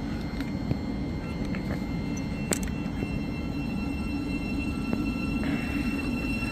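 Thameslink Class 700 electric multiple unit moving off along the platform: a steady low rumble of wheels on rail with faint steady whines from the traction equipment and occasional light clicks.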